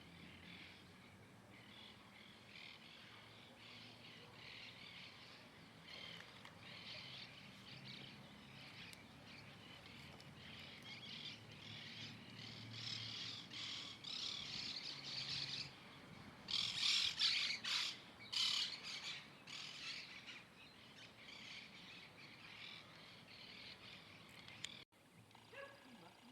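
Birds chirping, many short calls overlapping, growing louder and denser to a busy flurry about two-thirds of the way through, then cutting off suddenly shortly before the end.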